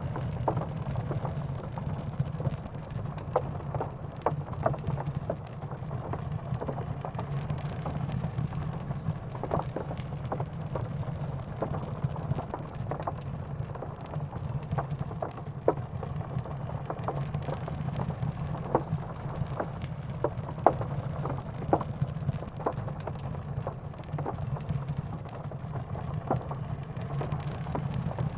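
Steady rain with a constant low rumble, over which a wood fire crackles and pops irregularly.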